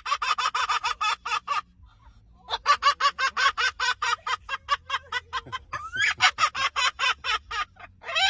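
A pet bird's rapid, pulsing cackle that sounds like laughter, about nine or ten pulses a second, in three bouts.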